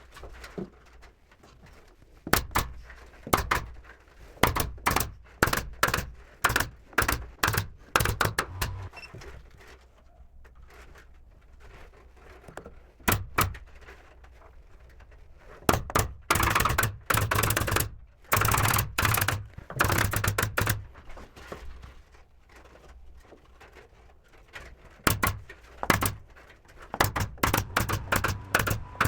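Carpentry work on wooden ceiling trim: runs of sharp knocks and clacks, about two a second, with quiet gaps, and longer rasping bursts about two-thirds of the way through.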